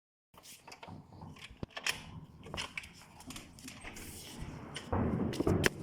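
Fireworks going off: a string of sharp pops and cracks at irregular intervals, growing louder and denser near the end.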